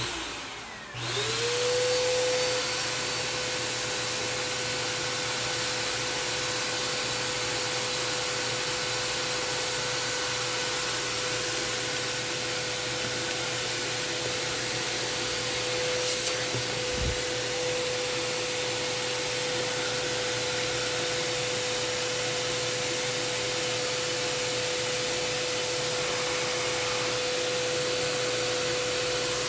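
Vacuum cleaner switched on: its motor whine rises and settles to a steady pitch about a second in, then runs steadily with a constant rushing hiss while it sucks dirt and lint out of a sewing machine.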